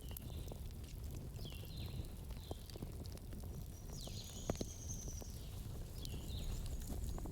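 Campfire burning: a low steady rumble with scattered sharp crackles of burning wood. Over it a bird gives short chirping calls several times, with one longer call a little past the middle.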